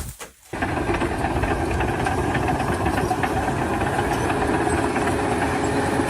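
A few short knocks, then from about half a second in an engine running steadily.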